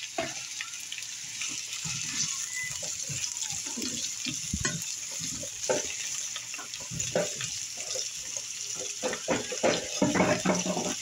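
Sliced zucchini frying in hot oil in a pan: a steady sizzle with scattered small pops. Near the end a spatula stirs the pieces, scraping and tapping the pan.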